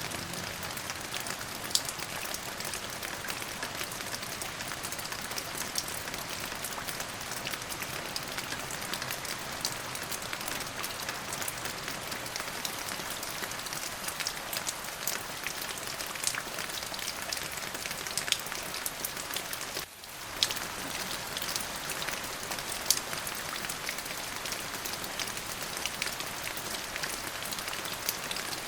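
Steady rain falling, with many separate drops heard as sharp ticks over an even hiss; the sound dips for a moment about twenty seconds in.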